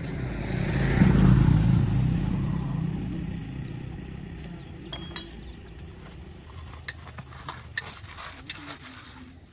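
A motor vehicle's engine rumbles loudly about a second in, then fades away over several seconds, then several sharp metallic clinks.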